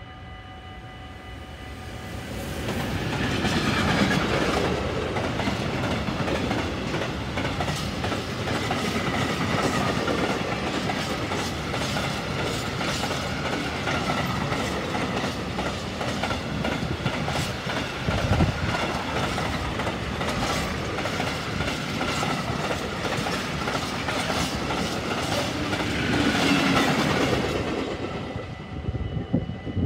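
Bombardier TRAXX electric locomotive and its long container freight train passing close by: the locomotive goes past about three seconds in, followed by a steady rumble of wagon wheels with rapid clicks over rail joints, which fades as the last wagon goes by near the end.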